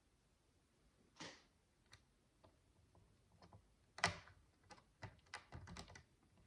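Small plastic micro bricks being handled and pressed together: a brief rustle a little over a second in, then a sharp click about four seconds in followed by a quick run of lighter clicks.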